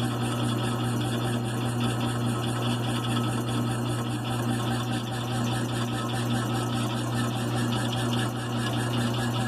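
1928 USACO belt-driven air compressor running steadily on its 220-volt single-phase electric motor, a constant hum under a fast, even pulsing of the pump. It is running well after its motor repair.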